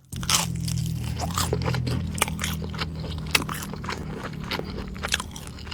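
Close-up chewing and crunching of fried Burger King onion rings, with many sharp crackly crunches over a steady low hum.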